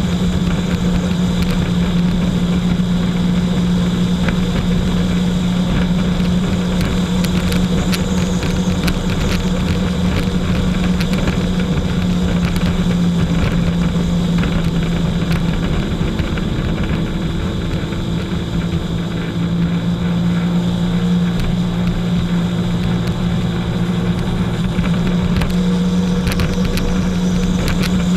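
Jet ski engine running at a steady speed, with a strong even drone; it eases off slightly about two-thirds of the way through, then picks up again.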